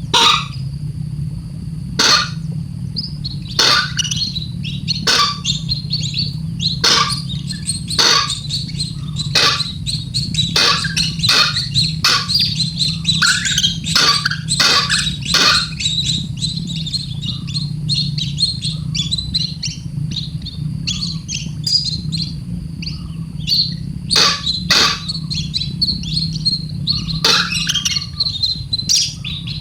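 A small bird chick chirping over and over in short, sharp calls, busiest in the middle, over a steady low hum.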